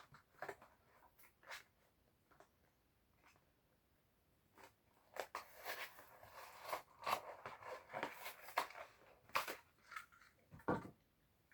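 Plastic blister packaging of a diecast toy car being opened: a few scattered clicks, then from about four and a half seconds in a run of crackling and crunching as the plastic is bent and pulled from the card.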